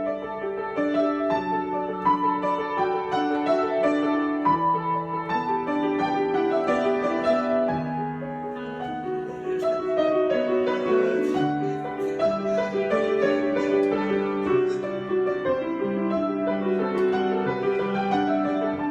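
Solo piano improvisation: slow chords with a melody over them, notes held and overlapping.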